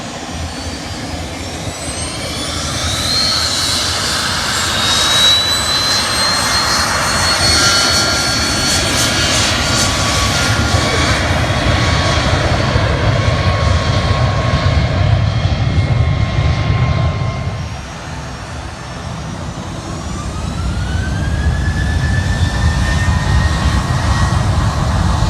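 Jet airliner engines running loud, a high whine over a deep rumble. The sound dips briefly about eighteen seconds in, then a whine rises in pitch.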